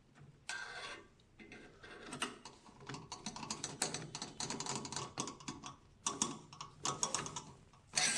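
Quick runs of light clicks and rattles from small hard parts being handled as a screw is fitted into the printer's ink pump mount.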